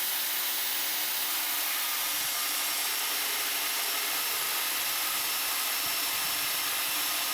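Power tool cutting through steel rebar: a steady, even hissing grind that starts and stops abruptly.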